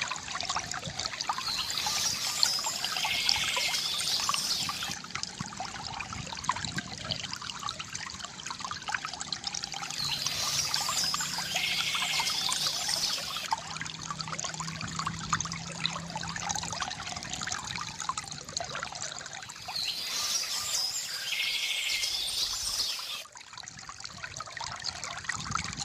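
Water trickling and splashing steadily from a bamboo fountain, with a bird singing three times, about every nine seconds.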